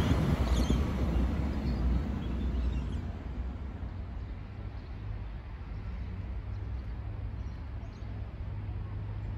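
V/Line VLocity diesel railcar set running away along the line, its rumble fading over the first three seconds with wind on the microphone. After that a low steady rumble with a few faint bird chirps.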